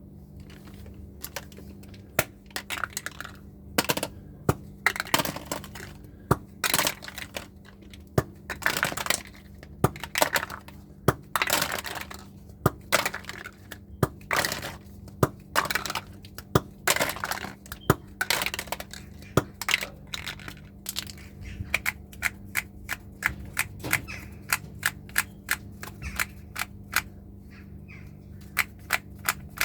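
Hammer smashing deodorant sticks: irregular sharp blows with crunching and crumbling between them. In the last third the hits become quicker and lighter, a rapid series of taps.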